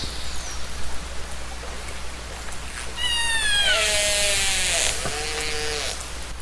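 Killer whale (orca) calls recorded underwater: a short falling whistle, then about three seconds in a long call of several pitched layers that glides downward in pitch. A steady low hum and a faint crackling background run underneath.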